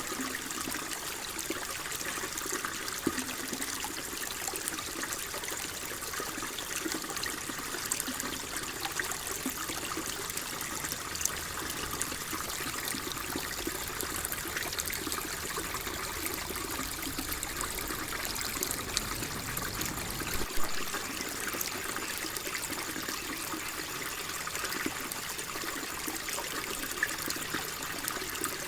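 Flowing water trickling and splashing steadily, like a small stream. A faint low rumble underneath stops abruptly about two-thirds of the way through.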